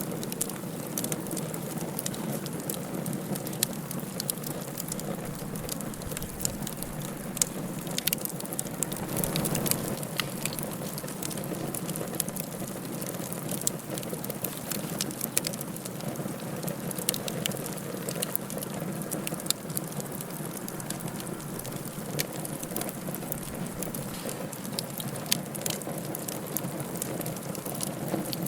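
Wood fire burning in a fireplace: a steady low rushing hiss with frequent sharp crackles and pops scattered throughout.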